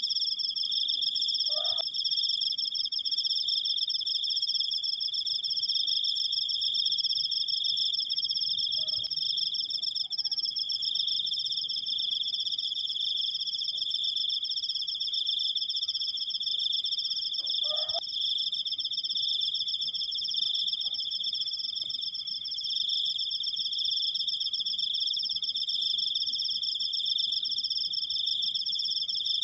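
Crickets trilling without a break: two steady, high, rapidly pulsed trills at different pitches. A brief lower call is heard three times.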